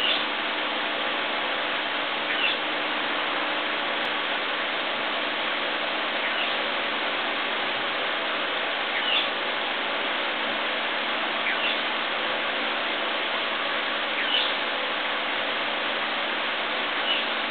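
Steady hiss with a small bird chirping briefly every two to three seconds, one short high note at a time.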